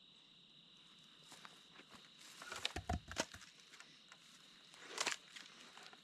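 Faint crunching and snapping of dry brush and twigs underfoot, in two short bursts of steps, over a steady faint high-pitched tone.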